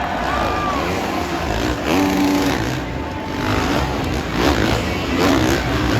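Dirt bike engines revving, their pitch rising and falling repeatedly over steady engine noise.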